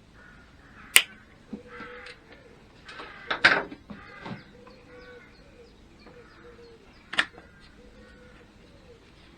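A few sharp knocks from hand work on the engine: one about a second in, a louder cluster around three and a half seconds, and another near seven seconds. Birds call faintly in the background between them.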